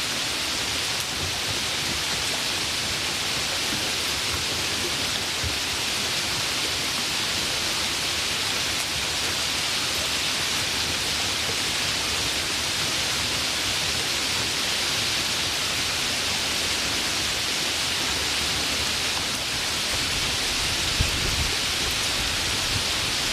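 Steady, even hiss of rain falling. A low rumble, as of thunder, builds near the end.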